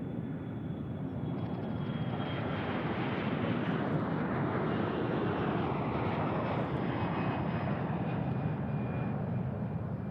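A jet airliner's engines: a steady, loud rush with a faint high whine, swelling to its loudest about halfway through and then easing off.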